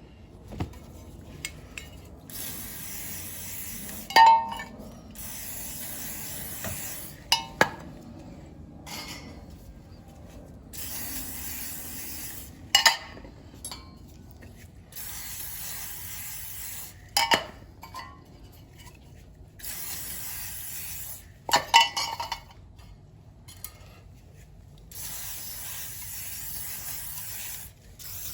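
Repeated hissing spray bursts, each about two seconds long, alternating with sharp metallic clinks and knocks.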